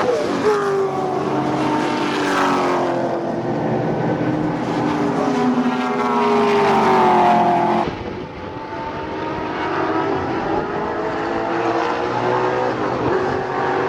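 V8 muscle-car race engines at racing speed on the circuit, several cars overlapping. Their notes rise and fall as they pass and change gear, and the sound breaks off sharply about eight seconds in before more cars come through.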